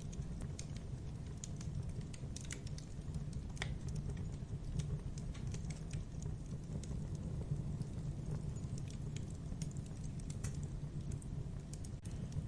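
Logs burning in a fireplace: irregular small crackles and pops over a steady low rumble of the fire, with a sharper pop a few seconds in.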